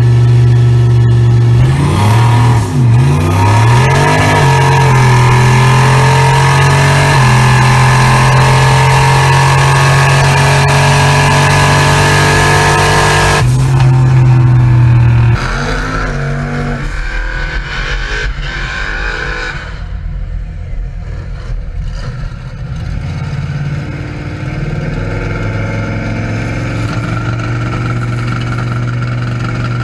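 Car engine running hard at high revs, heard loud from inside the cabin, its pitch wavering up and down a few seconds in. After about 15 seconds it drops to a quieter, lower engine sound with a few slow rises in pitch.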